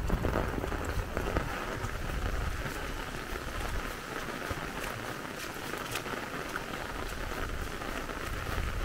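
Steady rain falling, with scattered sharp ticks of drops landing on an umbrella overhead.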